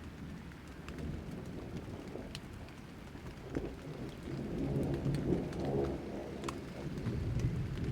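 Rain falling with scattered sharp drops, and a low rolling rumble of thunder that swells about three and a half seconds in.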